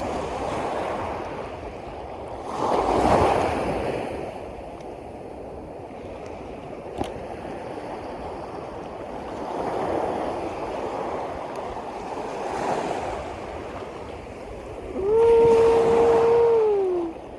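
Sea waves washing in, swelling and easing several times, with a single sharp click in the middle. Near the end, a steady hum-like tone sounds for about two seconds and drops in pitch as it stops.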